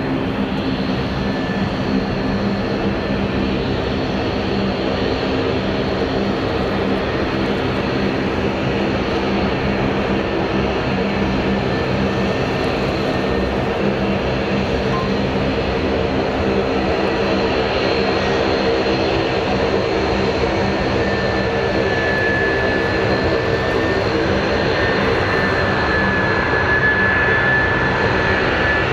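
Airbus A319-115 jet engines on final approach: a steady engine hum with a high fan whine that grows stronger in the last third, the whole sound slowly getting louder as the airliner nears.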